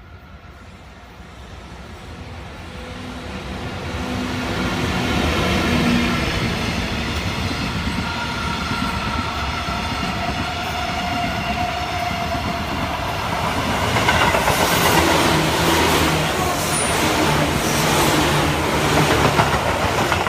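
Electric trains passing close by: a rumble and motor whine that build over the first few seconds, then in the second half a dense, louder clatter of wheels over rail joints.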